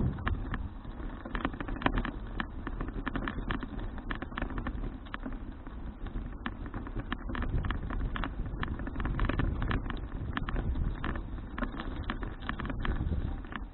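Wind rushing over a bicycle-mounted action camera's microphone while riding, with a steady low rumble and many irregular clicks and rattles throughout.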